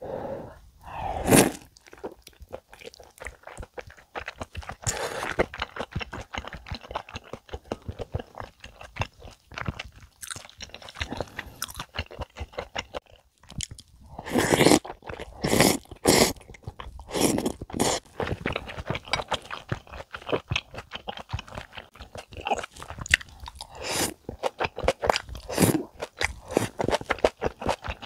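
Close-miked eating sounds of a big meat dumpling and rice cake soup (tteokguk): wet chewing and biting. Louder bursts come about a second in and several times between about 14 and 18 seconds as spoonfuls go in.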